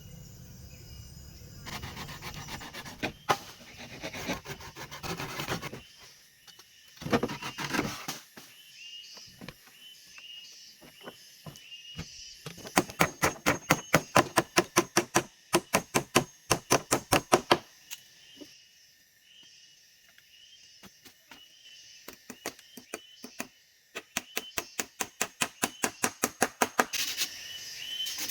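Quick runs of sharp knocks on wood, about four a second for several seconds at a time, from work on a wooden shelter. A steady high chirring of forest insects continues underneath.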